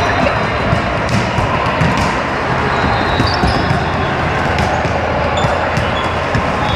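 Busy indoor volleyball gym: balls bouncing and being struck on a hard court, many short knocks scattered through a steady hubbub of voices.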